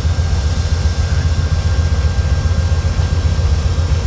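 Diesel locomotive running steadily with a loud, low, even rumble.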